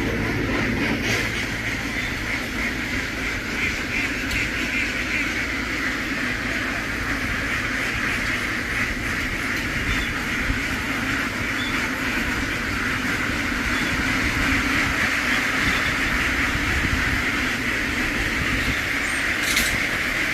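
A large flock of ducks quacking together in a continuous din, over a low steady rumble.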